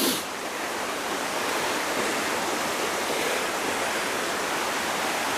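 Mountain stream running, a steady rushing of flowing water, with a brief knock or rustle at the very start.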